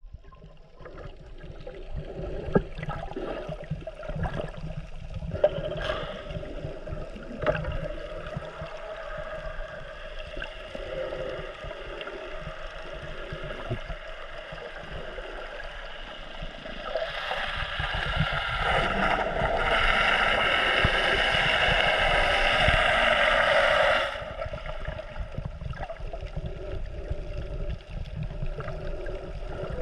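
Water sloshing and gurgling around a camera held by a swimmer, with scattered knocks. A louder rushing hiss sets in partway through, lasts about seven seconds and cuts off suddenly.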